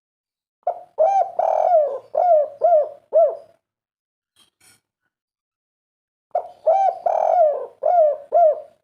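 Spotted dove cooing: two song phrases about five seconds apart, each a short opening note and a longer coo followed by a run of short arched coos, the 'kuk 3' song type.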